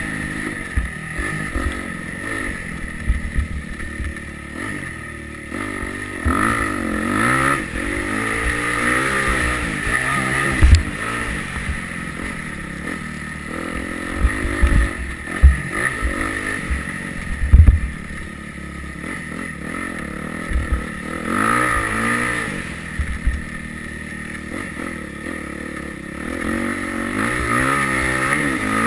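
Yamaha YZ250F four-stroke single-cylinder motocross bike being ridden hard, its engine revving up and falling back over and over as the throttle opens and closes. A few sharp low thumps stand out over the engine.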